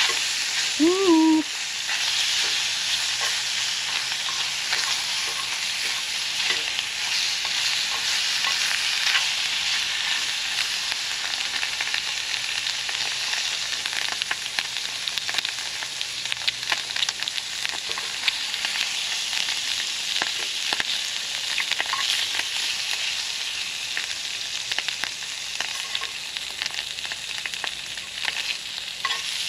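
Sliced ham and jalapeños sizzling in a very hot skillet: a steady frying hiss full of small crackles and pops, with occasional clicks of tongs turning the meat.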